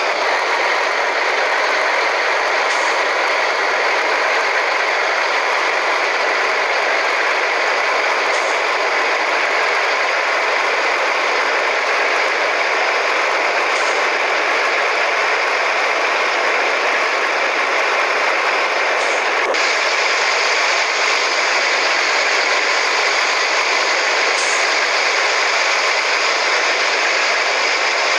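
Scania 113H truck with a straight-through exhaust running steadily, a dense, even engine-and-running noise that holds the same level throughout, with a faint tick about every five seconds.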